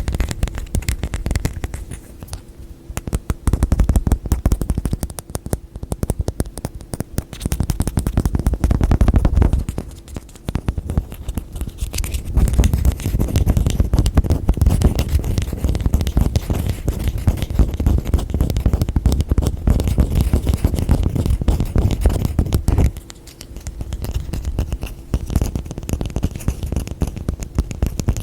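Close-miked fingertip tapping and scratching on objects: a dense, fast stream of small taps and scrapes that swells and eases in stretches, with a few short lulls.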